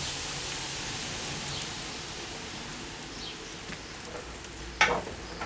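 Steady low hiss, slowly fading, with a single sharp click near the end.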